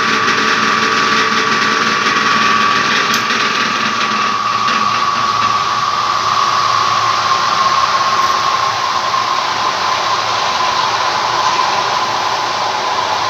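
Industrial hydro extractor (centrifugal spin dryer) spinning empty: a loud, steady whine over a rough running noise, sinking slightly in pitch over the later seconds. The noise comes from the drum having worked very loose, which the suppliers put down to a broken rubber mount or a loose centre nut.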